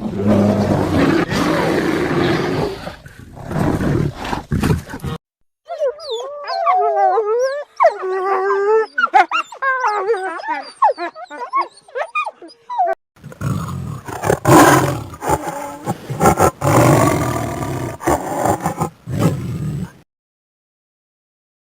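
A sequence of animal calls: a rough, noisy call for about five seconds, then several seconds of many quick whistled calls gliding up and down, then another rough stretch that cuts off near the end.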